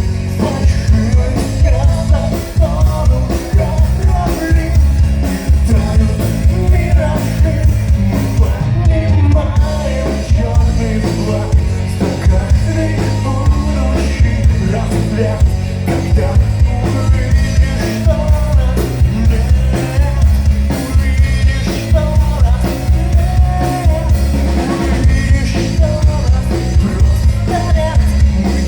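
Rock band playing a song live, with a steady driving drum beat and singing over it.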